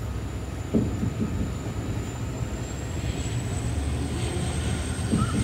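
Passenger train coaches rolling out of a station, heard from aboard: a steady low rumble of wheels on rail, with a knock from the track about a second in and again near the end.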